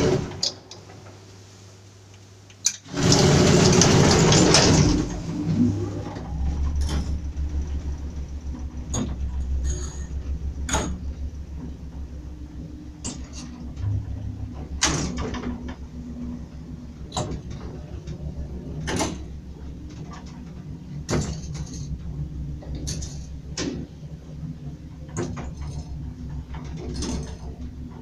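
Old Soviet MLZ passenger elevator: a single click, then a loud rushing clatter of about two seconds, then its AC-62 motor drive running with a steady low hum while the car travels. Sharp clicks come roughly every two seconds throughout the travel.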